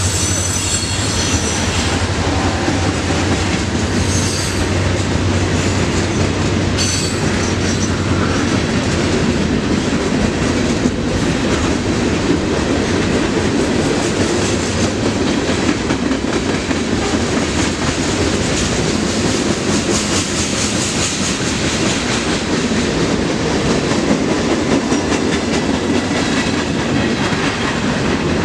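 Freight train cars rolling past, a steady loud wheel-on-rail rumble with clickety-clack over the rail joints. A low engine hum from the locomotives dies away about eight seconds in.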